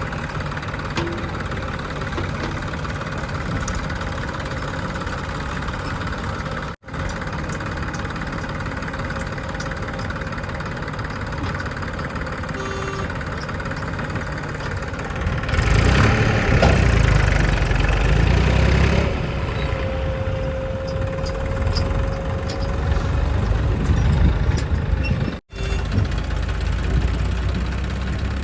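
Diesel engine of a JCB 3DX backhoe loader running at work. It gets louder and deeper for a few seconds about halfway through, and the sound cuts out for an instant twice.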